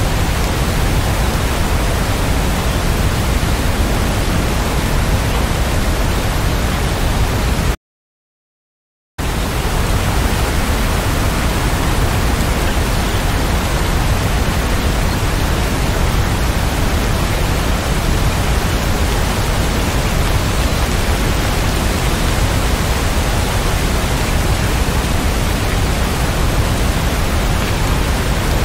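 Steady heavy rain as a dense, even hiss, with no separate drops or thunder. It breaks off for about a second and a half of complete silence around eight seconds in, then resumes unchanged.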